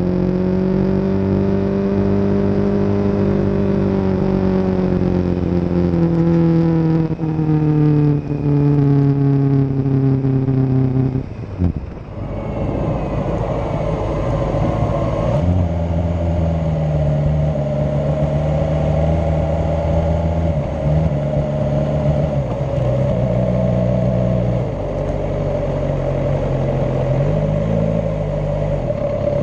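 Motorcycle engine running under way, heard from a camera on the bike: its pitch falls steadily over the first ten seconds as the revs drop, then there is a brief dip in level about twelve seconds in, and after that it runs at a steady lower pitch.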